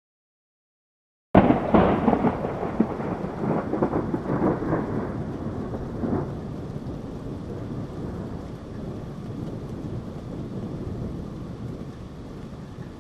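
A sudden loud thunderclap about a second in, crackling and rumbling as it fades over several seconds, with steady rain underneath.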